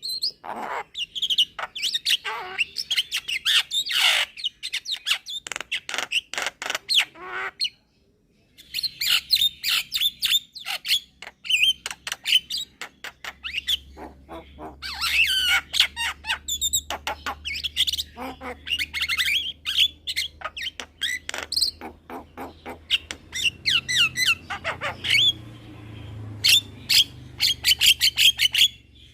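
Young Javan myna chattering and calling in a rapid run of short, sharp, squawky notes, with a brief pause about eight seconds in.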